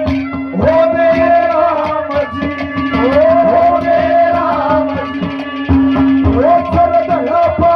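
Instrumental interlude of a Haryanvi ragni: a held drone note under a gliding, ornamented melody line, with a hand drum keeping a steady rhythm.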